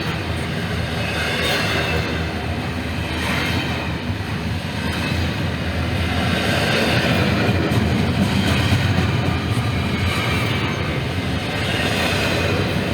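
Norfolk Southern freight train rolling past. A steady rumble of wheels on rail, a little louder about halfway through.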